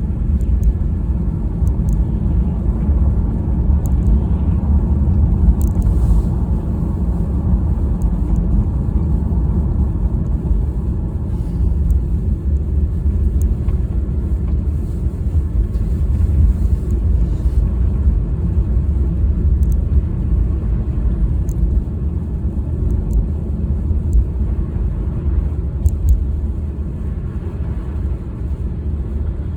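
Steady low rumble of a car driving, heard from inside the cabin: road and engine noise, with a few faint clicks.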